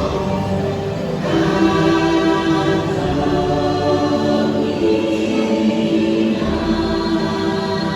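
Choral music: a choir singing long held notes that shift from chord to chord.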